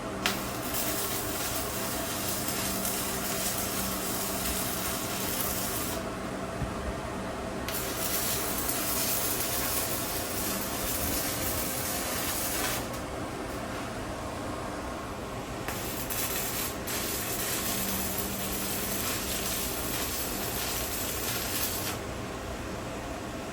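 Electric arc welding on the smoker's steel: a steady hiss in three runs of about five seconds each, with short pauses between them.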